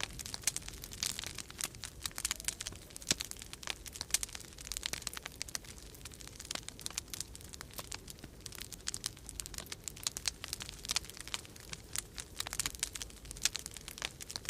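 Wood fire crackling in a fireplace, with dense, irregular pops and snaps, over a steady low rumble of winter storm wind.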